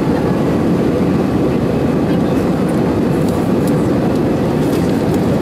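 Steady cabin roar of an Airbus A319's CFM56 jet engines and rushing air, heard from inside the passenger cabin, with a faint steady whine above the rumble.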